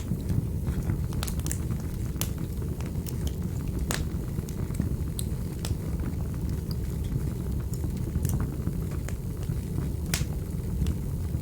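Wood fire burning in a fireplace: a steady low rumble with irregular sharp crackles and pops, a few of them louder, about 4 and 10 seconds in.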